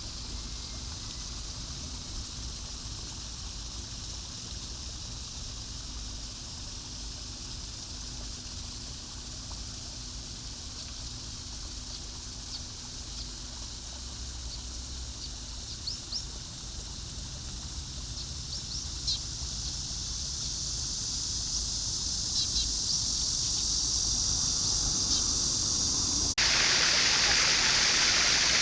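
Steady outdoor hiss with a few short bird chirps, growing louder through the second half. About 26 seconds in, it cuts suddenly to loud rushing water.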